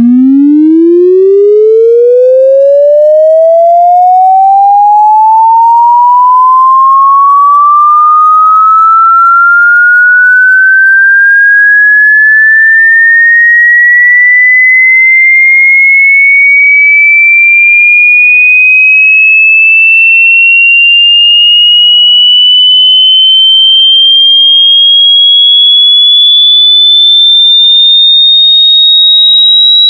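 Electronic frequency-sweep tone, very loud and steady in level, rising smoothly and without a break in pitch from low to high, with buzzy overtones above it.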